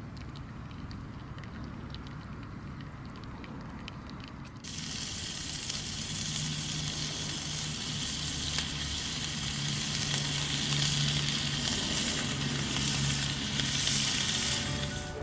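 A low rumble, then a steady hiss that starts suddenly about four and a half seconds in and keeps on, with a low hum under it.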